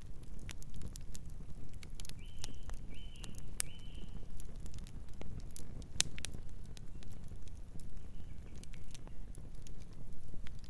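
Wood fire crackling, with frequent sharp pops and snaps over a low, steady rumble of burning. About two seconds in, a distant bird calls three times in quick succession, each call short and even in pitch, and fainter calls come again later.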